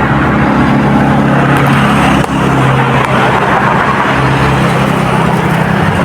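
An engine running steadily over a constant background noise, with a brief dip about two seconds in.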